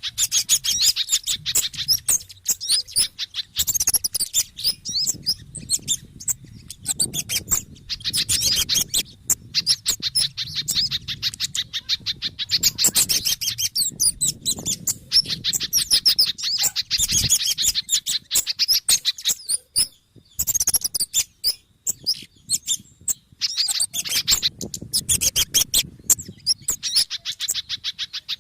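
Recorded bird-lure calls of kemade, sogon and pijantung birds: rapid runs of high, agitated chirps in repeated bursts with short breaks between them.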